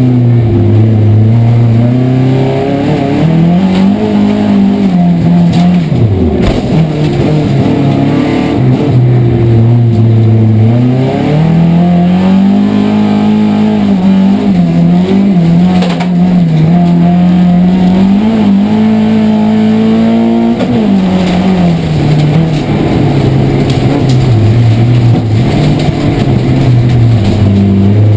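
Saab rallycross car's engine on individual throttle bodies, heard from inside the cabin under racing load, revving up and down repeatedly as the driver shifts gears and lifts for corners. Occasional sharp clicks sound over the engine.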